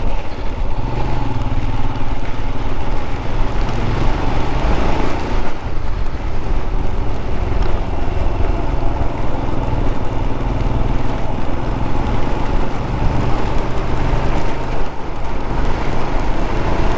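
Royal Enfield 411 cc single-cylinder motorcycle engine running steadily under way, with small changes in pitch. Wind and rain noise rush over the microphone.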